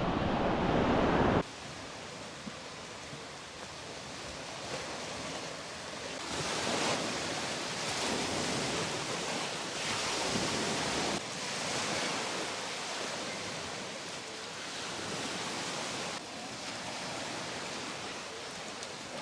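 Sea surf washing up on a sandy beach, the noise swelling as waves break every few seconds. A louder, deeper rush cuts off abruptly about a second in.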